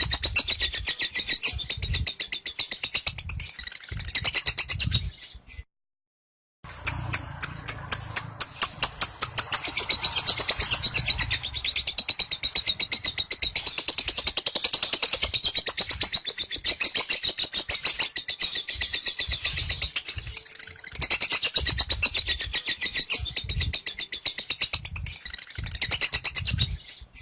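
Lovebird 'ngekek': a long, very rapid, high-pitched chattering trill of tightly packed notes that breaks off for about a second around six seconds in, then carries on unbroken.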